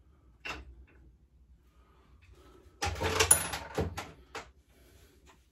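Workshop handling noise while a pit bike's rear shock is being fitted: a single knock about half a second in, then a clatter of several knocks and rattles around three to four seconds in, as tools and parts are picked up and set down.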